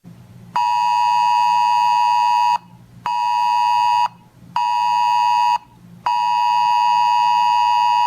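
Weather radio receiver's alert tone: a loud, high, buzzy beep pulsing in a long–short–short–long pattern. The long beeps last about two seconds, the short ones about one, with half-second gaps, signalling an incoming weather alert.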